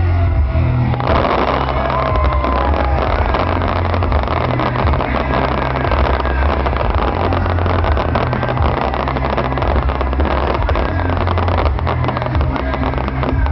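Fireworks display over loud music with a heavy bass line. From about a second in, a dense crackling fills the air, with a few short whistling glides.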